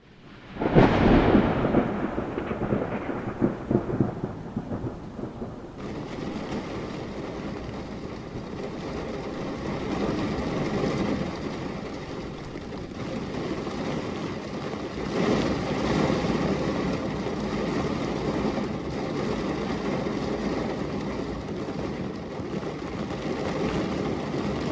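Thunderstorm: a loud clap of thunder breaks about a second in and rumbles away over the next few seconds. Steady rain follows, with further rolls of thunder swelling and fading twice.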